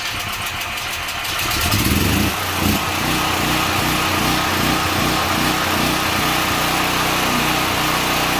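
Westinghouse 9500 DF portable generator's engine, running on propane, coming up to speed over the first couple of seconds after starting and then running steadily.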